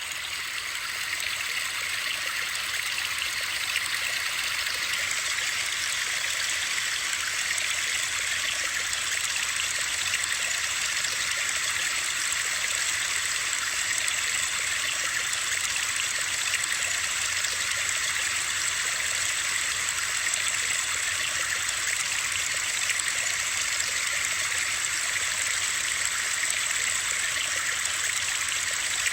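Steady white-noise track of rushing water: an even, bright hiss that cuts in abruptly out of silence and then holds unchanged.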